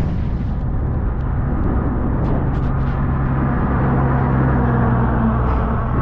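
A motor vehicle's engine drone on the road, growing louder toward the middle and easing near the end, over wind rumbling on the microphone.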